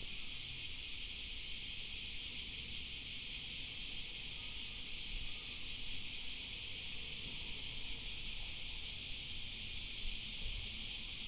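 Steady high-pitched chorus of crickets trilling, with a few faint crackles from a small wood fire.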